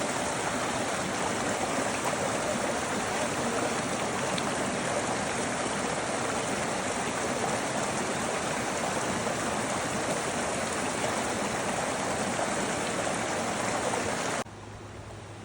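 Running water of a mountain stream, a steady rushing. It cuts off abruptly about a second before the end, leaving a quieter hiss with a faint low hum.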